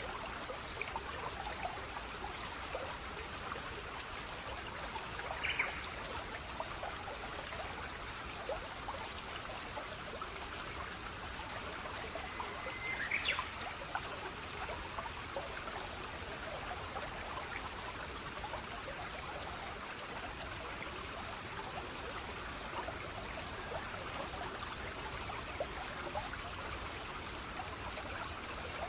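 Water flowing and trickling steadily in a small stream, with many small splashes. Two brief, slightly louder high sounds stand out, one about five seconds in and one about thirteen seconds in.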